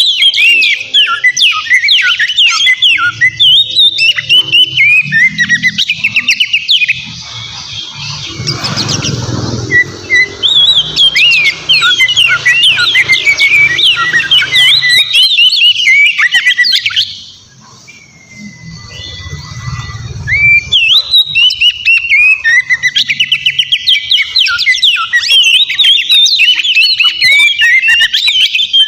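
Oriental magpie-robin (kacer) singing loudly and continuously in fast runs of sharp, varied, sweeping notes. About two-thirds of the way in the song breaks off briefly for one long even whistle, then the rapid phrases resume. A low rumble sits under the song twice.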